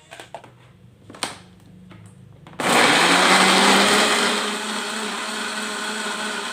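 Electric kitchen blender switched on after a few light clicks and knocks, its motor starting suddenly about two and a half seconds in and then running steadily at a constant pitch.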